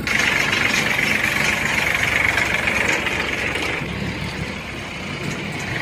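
Heavy diesel machinery engine running, with a loud hissing rush over it that drops away a little under four seconds in.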